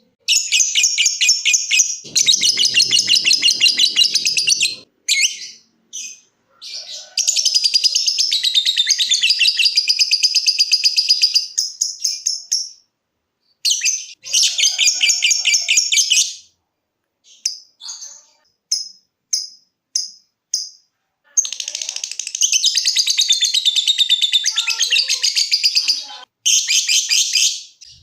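Lovebird singing its 'ngekek': long bouts of rapid, high-pitched chattering trill lasting several seconds each, broken by short pauses. About two-thirds of the way through, the bird gives a run of separate short chirps before breaking into a long trill again.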